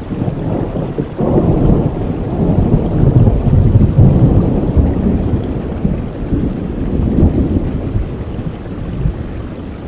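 Steady rain with a long roll of thunder that builds about a second in, is loudest in the middle and dies away near the end.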